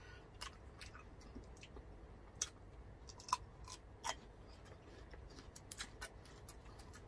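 Scattered crisp clicks and crunches of close-up eating, among them a bite into a whole raw cucumber about four seconds in.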